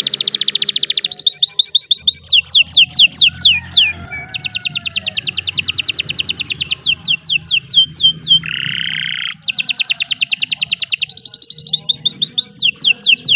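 Domestic canary singing a long song: fast trills and runs of quick, repeated downward-sweeping whistled notes, with a short harsh, buzzy phrase about nine seconds in.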